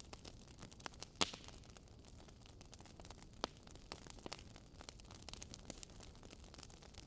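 Wood fire in a fireplace crackling, with many small irregular snaps and one loud pop about a second in.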